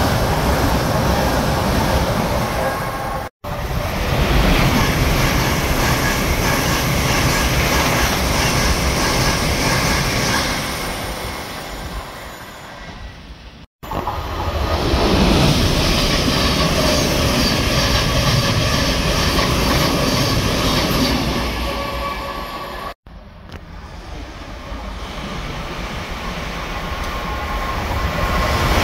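Passenger trains passing close at speed: the rush of wheels on rail and air swells and fades, first from an LNER Azuma going by. The sound cuts off abruptly three times between separate passes, and near the end another train is heard growing louder as it approaches.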